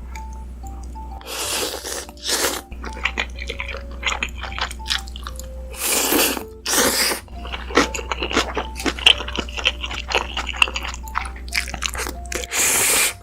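A person eating ramen close to the microphone: about five long noodle slurps, the last near the end, with many small wet chewing smacks and clicks between them. A faint melody plays underneath.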